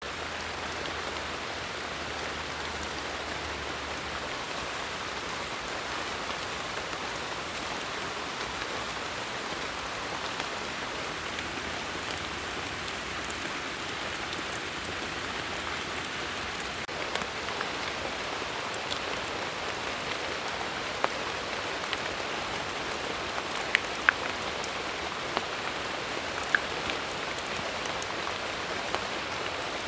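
Steady rain falling on forest foliage and muddy ground, a continuous even patter. In the second half, louder single drops tick close by now and then.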